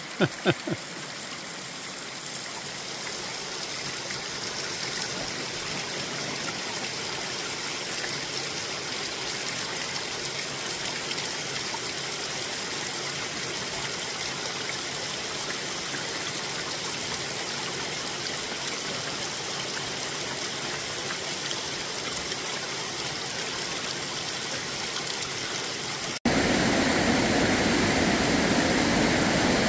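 Steady rush of flowing water from a stream. Near the end it cuts off abruptly to a louder, steady rushing noise.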